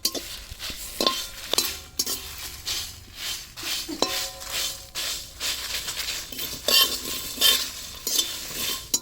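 A metal spatula stirring and scraping whole spices (dried red chillies, coriander, cumin, fennel and fenugreek) as they roast in a pan for a ghee roast masala. Repeated scrapes and clinks come about once or twice a second, some ringing briefly, over a light sizzle.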